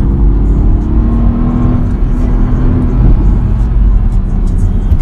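Car engine and road noise heard from inside the cabin while driving, a heavy low rumble with the engine pitch rising a little over the first couple of seconds.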